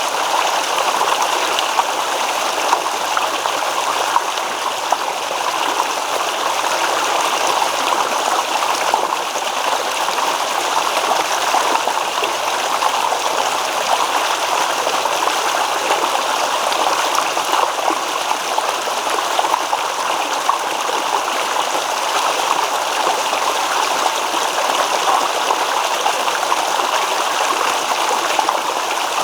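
Small stream babbling over stones: steady rushing with fine, constant gurgles and splashes.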